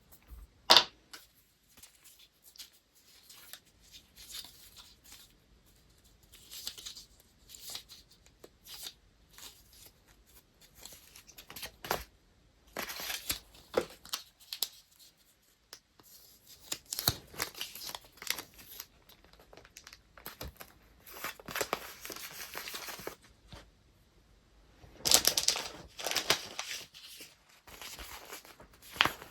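Paper and wrapping material being handled: irregular crinkling, rustling and tearing in bursts, with a sharp snap about a second in.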